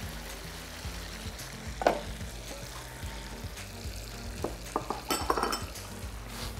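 Beef keema boiling hard in oil and water in a karahi, sizzling and bubbling steadily. A clank comes near two seconds in, and a quick run of metal clinks about five seconds in.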